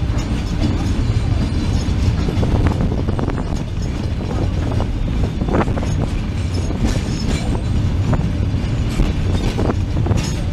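Train running along the track, heard from on board: a steady low rumble of the wheels on the rails with irregular clicks and clacks.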